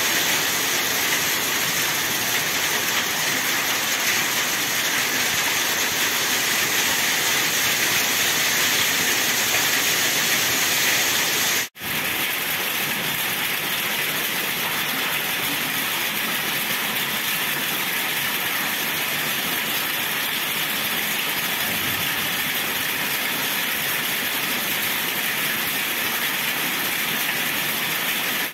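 Heavy rain pouring steadily, a dense even hiss. It cuts out for an instant about twelve seconds in and carries on slightly quieter.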